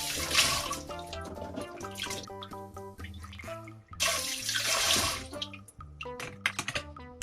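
Close-miked eating of spicy seafood and mushrooms: two wet slurps of about a second each, one at the start and one about four seconds in, and a run of quick clicky chewing sounds near the end, over background music with a steady melody.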